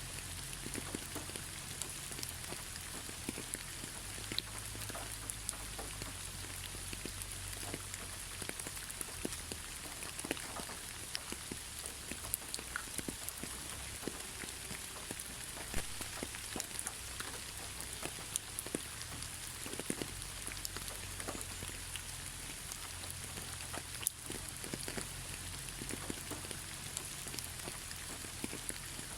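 Steady rain falling: an even hiss dotted with many separate drop ticks, with a faint low rumble underneath.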